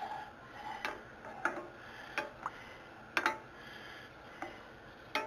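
A spoon clinking and tapping against a saucepan while soup is stirred, in sharp separate clicks at an uneven pace, about one every half second to a second.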